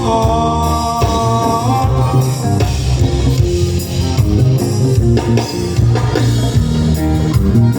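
Live band playing an instrumental passage, with guitar over a steady drum and bass groove.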